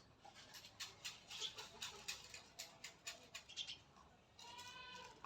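Faint, irregular clicks and taps, then a short, wavering goat bleat near the end.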